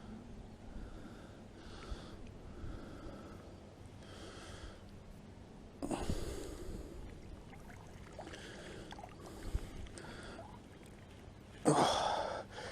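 A man breathing hard in soft, noisy puffs about once a second while straining to haul in a heavy magnet-fishing catch. A louder rush of sound comes near the end.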